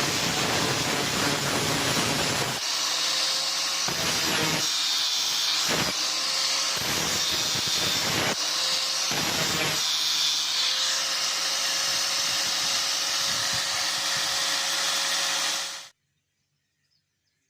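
An electric power tool motor running steadily with a hissing noise and irregular low surges, then cutting off abruptly near the end.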